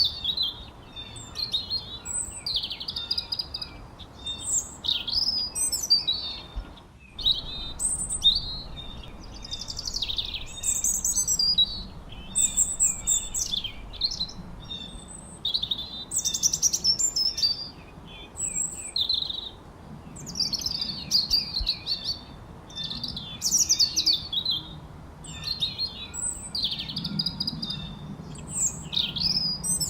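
Songbirds chirping and whistling in quick, overlapping phrases of short rising and falling notes, over a faint steady background hiss.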